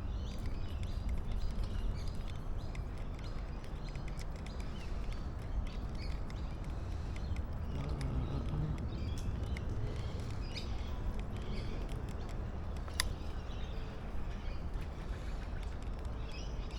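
Birds chirping here and there over a steady low rumble, with one sharp click about thirteen seconds in.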